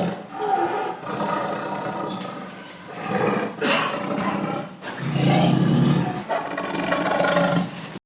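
Farm animals calling loudly and almost without a break, with a short lull a little before the five-second mark.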